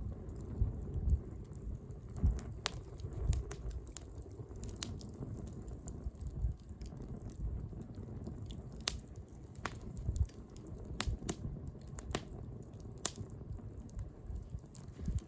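Wood bonfire crackling, with irregular sharp pops and snaps every second or so over a low steady rumble.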